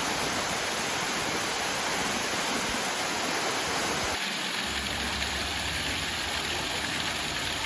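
Steady rushing water, with a slight change in the sound about four seconds in.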